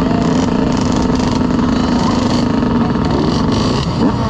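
Dirt bike engine running steadily at idle, then engines revving up in rising sweeps near the end.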